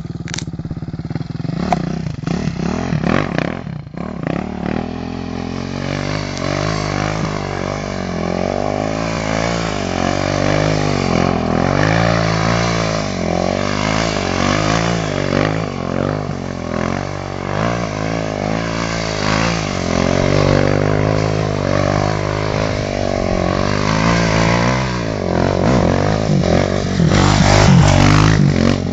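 Motocross bike engine running under a rider, its pitch rising and falling over and over as the throttle is opened and closed. A few sharp knocks and clatter come in the first few seconds, and the engine is loudest near the end.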